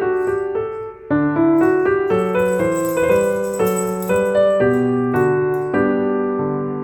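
Background piano music: a lively run of single notes and chords, with a short break about a second in and a chord ringing out near the end.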